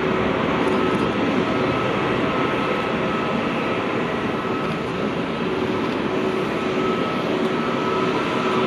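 Jet airliner engines running, a loud steady rush of noise with faint steady whining tones over it.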